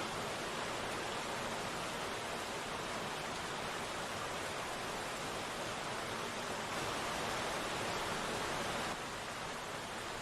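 Steady rain falling, a dense, even hiss with no distinct drops standing out. It drops slightly in level, suddenly, near the end.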